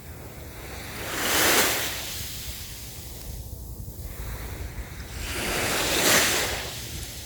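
Sea waves washing onto the shore, two surges that each build and fall away over about a second and a half, roughly four and a half seconds apart. Wind rumbles on the microphone throughout.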